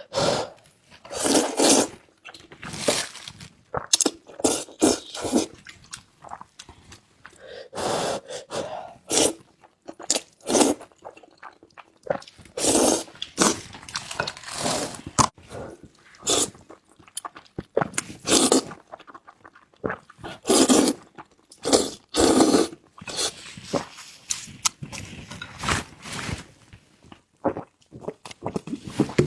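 Close-miked eating: noodles in a thick, sticky malatang broth being slurped and chewed wetly, in many short, irregular bursts.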